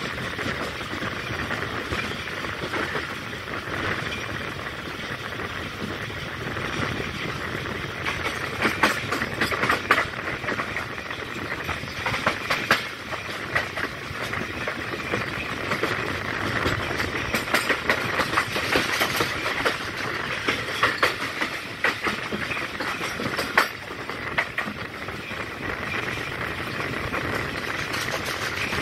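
Pakistan Railways passenger train running along the track: a steady rumble and rattle of coach wheels on rail, with a run of sharp clanks and clicks through the middle.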